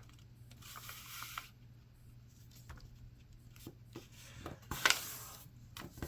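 A sheet of paper being handled and folded: soft rustling and rubbing, with a louder rustle about five seconds in.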